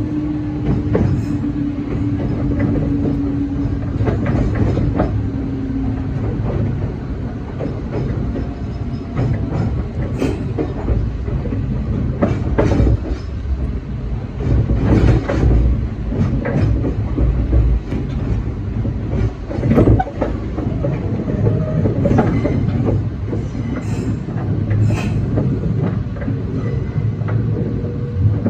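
Meitetsu 6000 series electric train heard from the driver's cab as it slows into a station. The wheels rumble steadily on the track, with a steady hum over the first few seconds. Sharp clacks come a few seconds apart as the wheels cross rail joints and points.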